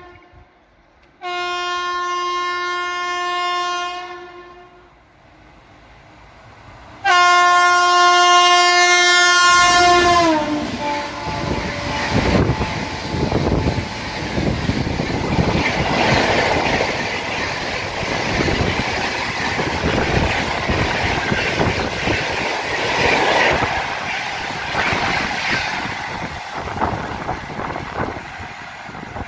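Express train's locomotive horn sounding in long blasts, the last and loudest dropping in pitch as the locomotive rushes past. Then the train runs through at speed: a loud, steady rush with rapid wheel clatter as the coaches go by.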